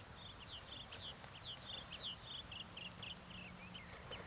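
A songbird singing a fast run of short high chirps, about five a second, the notes dropping lower near the end, over faint outdoor background noise.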